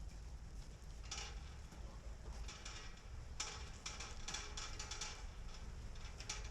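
Bursts of quick, light clicks and taps on a hard surface, in irregular clusters over a steady low rumble.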